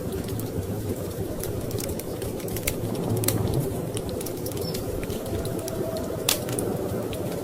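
Wood fire crackling in a fireplace, with scattered sharp pops and one louder pop about six seconds in, over a steady low rumble of storm wind.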